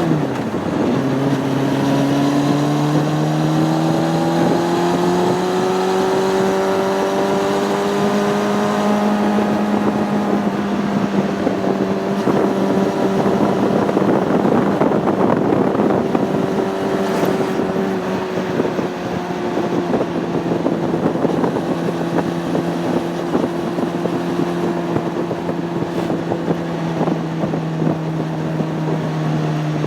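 Honda CB600F Hornet's inline-four engine running on the road, with wind noise on the microphone. The revs drop sharply right at the start, as at a gear change, then climb slowly for several seconds and ease back to a steady cruise.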